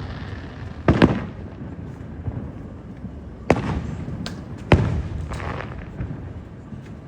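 Fireworks bursting: a double bang about a second in, then four sharp bangs in quick succession between about three and a half and five and a half seconds. Each bang trails off in a low rumble.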